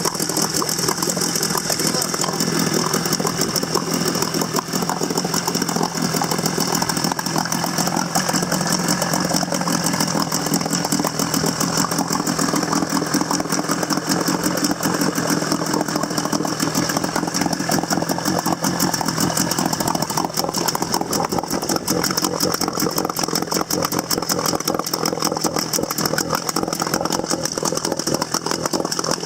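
Suzuki 8 hp two-stroke outboard motor running steadily at a constant speed.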